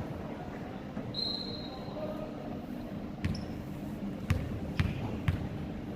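Basketball bouncing on a hard gym floor. A few separate thuds come first, then three dribbles about half a second apart near the end, with a brief high-pitched tone about a second in.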